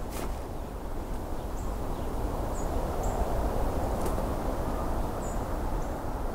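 Five faint, short, high-pitched songbird call notes, each a quick falling note, spread across a few seconds over a steady low outdoor rumble.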